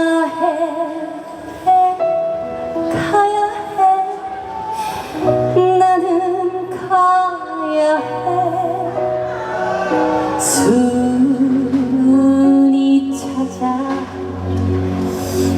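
Trot song performed live: a woman singing sustained notes with vibrato over backing music.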